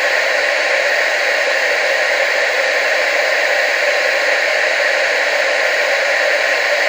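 Steady hiss of analogue TV static, loudest in the middle range, with little bass.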